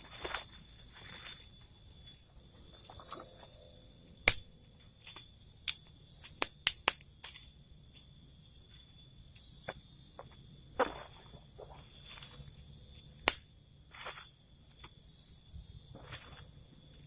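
Irregular sharp knocks and clicks, some singly and a quick cluster of several about halfway through, over a steady high insect drone of the tropical forest.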